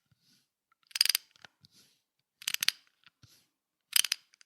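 Three short bursts of rapid mechanical clicking, evenly spaced about a second and a half apart, with near silence between them.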